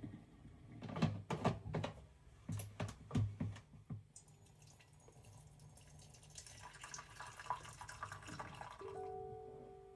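Kitchen sounds: a handful of sharp knocks and clinks, then water running from a tap into a sink. Soft music comes in near the end.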